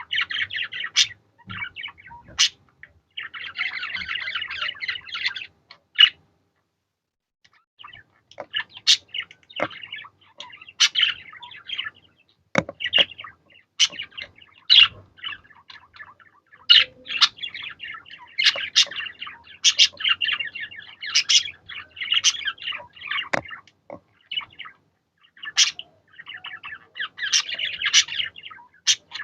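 Budgerigars chattering in their warbling song, with sharp high chirps scattered through it. The chatter stops for about two seconds a few seconds in, then starts again and runs on.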